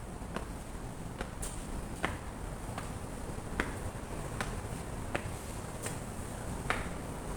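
Scattered water drops from light drizzle landing with sharp, irregular ticks, roughly one a second, over a steady low rumble.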